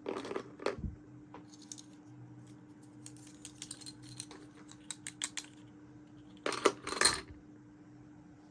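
Small hard plastic toy pieces clicking and clattering as they are handled and set down: a run of quick light clicks in the middle, then two louder clatters near the end.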